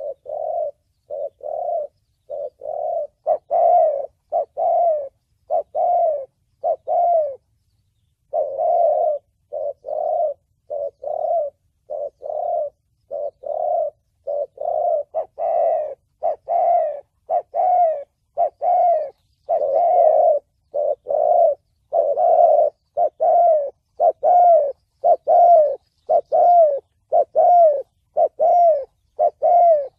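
Spotted dove cooing in the deep 'thổ bầu' voice style: a continuous series of short, low coos, about one to two a second, with a brief pause about a quarter of the way in.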